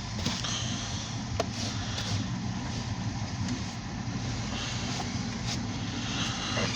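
Alco diesel locomotive's engine running steadily with a low rumble, a few light clicks over it.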